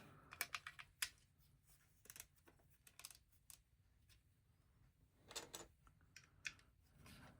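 Faint, scattered clicks of plastic LEGO pieces being handled and pressed together, in small groups with short pauses between them.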